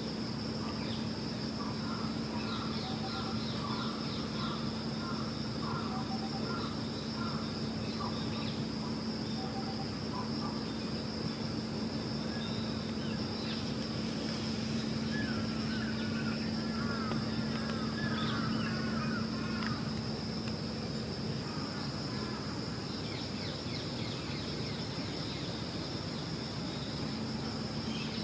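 Outdoor ambience of small birds calling in short repeated chirps, with a busier run of rising and falling chirps about halfway through. A steady high-pitched tone and a low steady hum run underneath.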